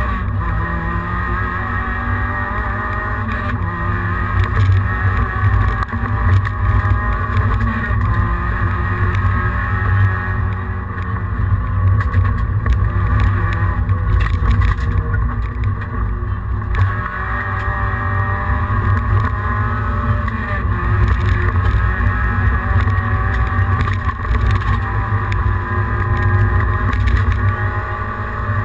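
Peugeot 106 rally car's engine heard from inside the stripped cabin, running hard at high revs, its pitch rising and falling as the car is driven flat out along a stage.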